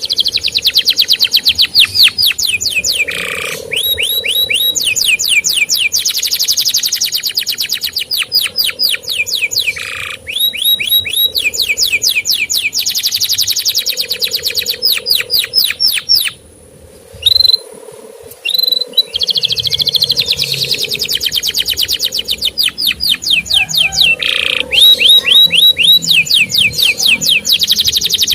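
Male canary singing long, rapid trills of repeated down-slurred 'cuit' notes, broken by short pauses and a longer break a little past halfway.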